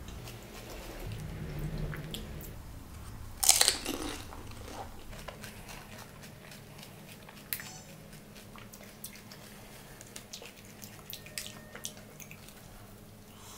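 Close-miked chewing of crunchy food, with one loud crunch about three and a half seconds in; after that the chewing dies down to faint mouth clicks.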